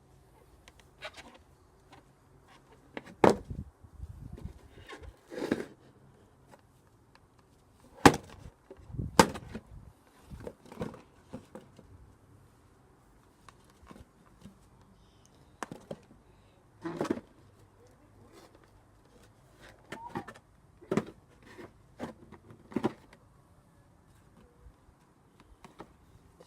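A vacuum cleaner pole striking a cardboard box: irregular thumps and knocks, some single and some in quick pairs, with the hardest blows about a third of the way in.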